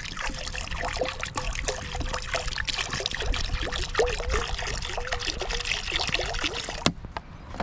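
Water being poured into a cast-iron Dutch oven, gurgling, with short wavering pitch glides as the pot fills. It cuts off abruptly near the end.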